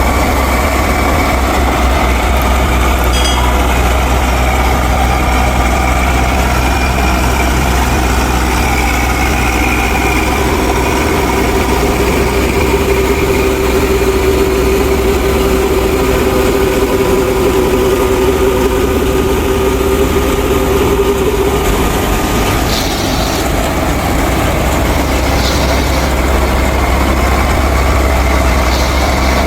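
Miniature tractor and thresher machine running steadily with an engine-like hum. A higher tone joins about a third of the way in and drops out about two-thirds through, and a few faint ticks come near the end.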